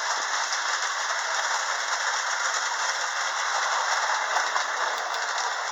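Lionel model trains running on the layout's track, making a steady rattling clatter.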